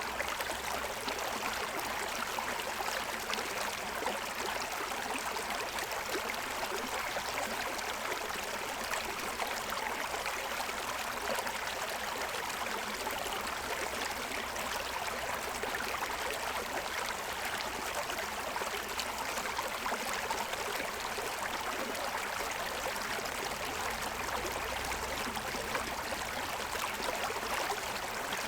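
Forest stream flowing over the stones of its bed, a steady, unbroken rush of water.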